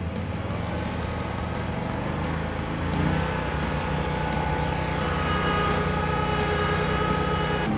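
Toro riding mower's engine running under load while mowing, rising in pitch about three seconds in, with a steady higher whine joining about five seconds in.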